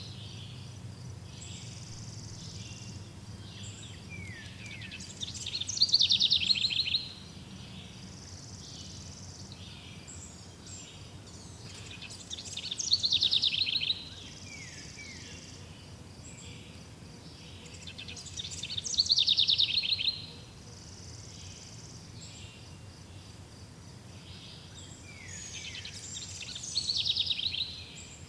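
A songbird repeating the same song four times, about every six or seven seconds: each time a fast, loud trill lasting a second or two that falls in pitch. Softer short downward notes come between the songs, over a faint steady background hiss.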